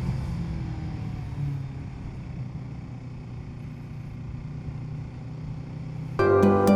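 Kawasaki Z650 parallel-twin engine running under way with a steady rush of wind noise, easing off and quietening in the first second or two. About six seconds in, plucked-string music comes in suddenly.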